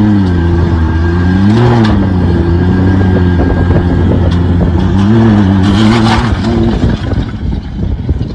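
A vehicle engine running hard, loud and steady, its pitch rising and dropping back briefly a few times. Noisy rushes come and go over it.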